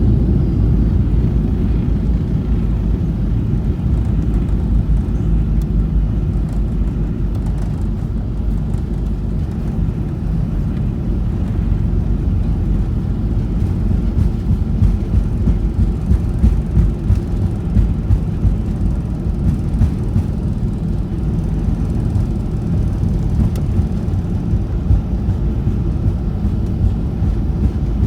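Loud, steady low rumble inside the cabin of a Boeing 737-800, with uneven jolts in the level from about halfway through.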